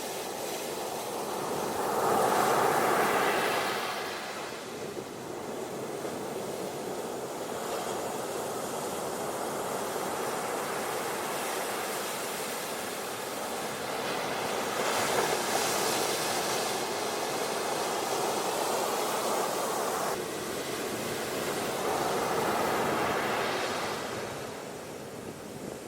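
Ocean waves washing onto a beach: a steady rush of surf that swells louder three times as waves break, about two seconds in, around the middle, and again near the end.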